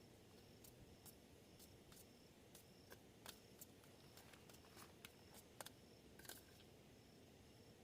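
Faint insect chirping, short high chirps repeating about twice a second, with scattered sharp clicks over a quiet night background.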